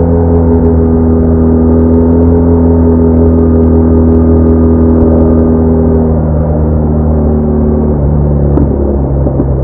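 BMW R1200R motorcycle's flat-twin engine running at a steady speed. Its pitch eases down after about six seconds and drops a step near the end as the revs fall.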